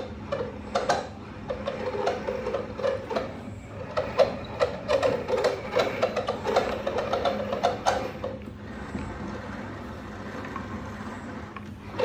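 Old Town PDL kayak pedal drive making a loud squeaking noise as it is pedalled, a quick run of repeated squeaks and knocks. They fade down to a quieter, steadier sound about eight and a half seconds in.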